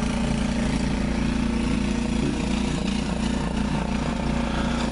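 Ariens 10 hp snowblower engine running steadily as it clears snow.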